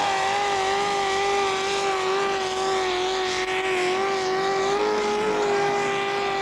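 A pulling tractor's engine runs flat out under load at steady high revs, with only slight wavers in pitch.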